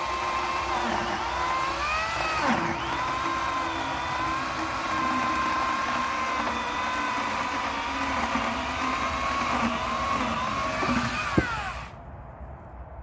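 Electric saw cutting firewood: a steady high motor whine that sags in pitch as the blade bites into the wood, about two and a half seconds in and again near the end. A short knock follows, and the whine stops about twelve seconds in.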